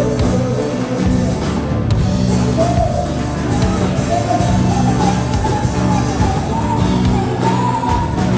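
Live band playing loud rock music, with a melody line carried by a singer over a steady backing.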